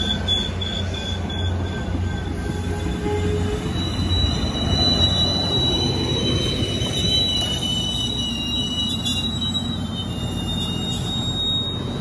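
MBTA Commuter Rail passenger coaches rolling past: a steady rumble of wheels on rail with a thin high-pitched squeal from the wheels that drifts slowly lower in pitch.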